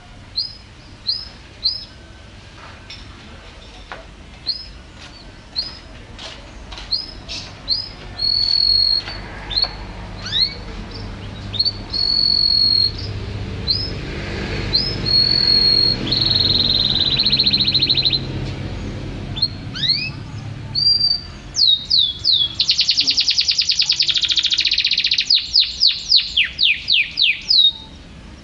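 A songbird singing: sharp hooked chirps repeated about once a second, a few held high whistles, then a fast, dense trill and a quick run of chirps near the end.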